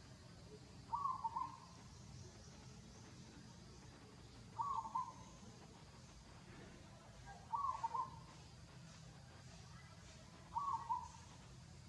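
A short animal call near 1 kHz, repeated four times at even intervals of about three seconds, over a low steady background hum.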